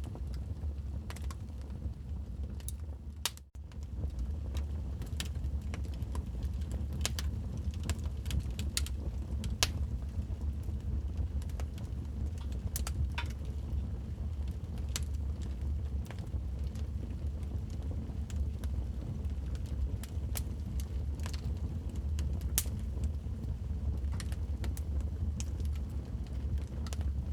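Wood fire crackling in a fireplace: irregular sharp pops and snaps over a steady low rumble of the burning logs. The sound drops out briefly about three and a half seconds in.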